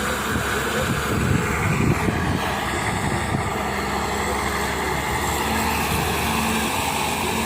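Wheeled excavator's diesel engine running steadily under work, with a low rumble and a faint held tone near the end.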